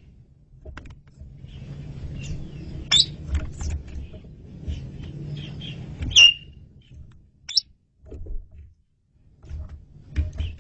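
Asian pied starling (jalak suren) calling: loud, sharp chirping whistles about three, six and seven and a half seconds in, with softer chirps between, over a low background rumble.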